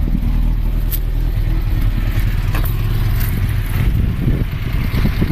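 Lancia Fulvia Coupé 1216's narrow-angle V4 engine running at idle on its first run, steady and slightly uneven near the end, with a sharp click about a second in.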